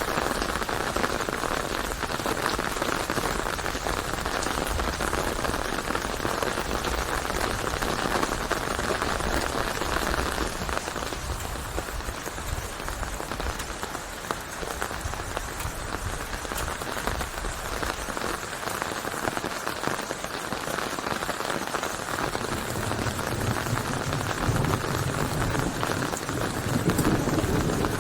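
Steady rain falling on a surface: a dense, even patter of drops. Over the last few seconds a low rumble builds beneath it.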